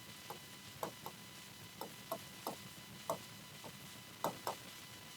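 Faint, irregular light clicks and taps, about a dozen in five seconds, over a low hiss.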